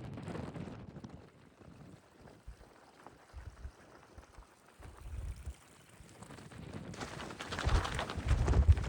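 Strong mountain wind buffeting the microphone, irregular low rumbling gusts that grow much stronger and rougher near the end.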